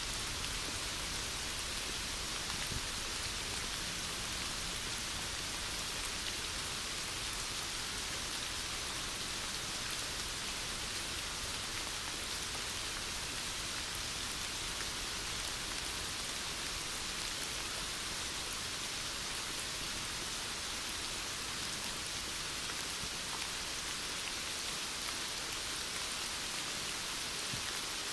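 Heavy rain falling, a steady, even hiss of rain on surfaces.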